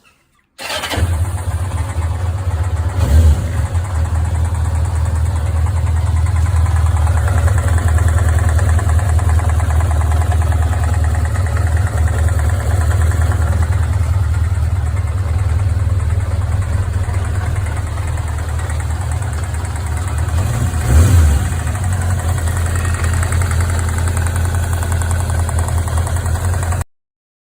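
Carburetted petrol engine running steadily at idle, with two brief rises in revs, about 3 seconds in and again near the 21-second mark. The sound starts and stops abruptly.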